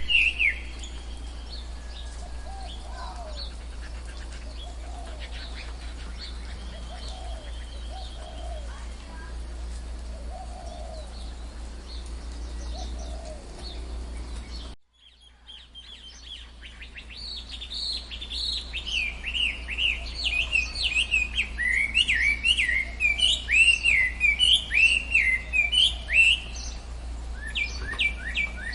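Tropical forest birds calling. Soft, low calls come over a steady low hum, then the sound cuts out abruptly about halfway through. It returns as a loud chorus of rapid, repeated high chirps and trills.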